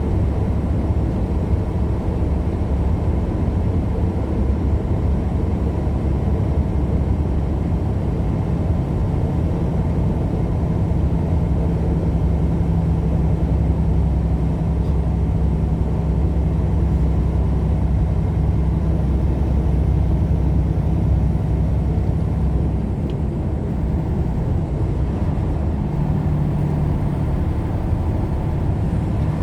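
A vehicle travelling steadily, with an even engine hum and road rumble that stay level throughout.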